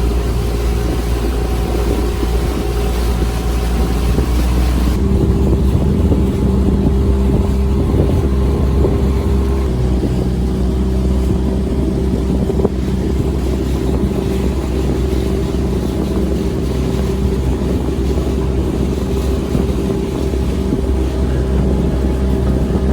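Boat engine running steadily, heard from on board as a loud, even drone, with some wind noise on the microphone. About five seconds in, the hiss drops and the engine's tone shifts slightly.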